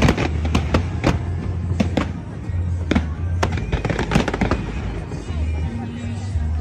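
Aerial fireworks bursting in quick, irregular bangs and crackles over loud show music with a steady bass.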